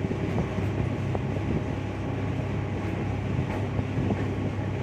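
Steady low rumble of a moving train, heard from on board, with a few faint clicks from the wheels on the track.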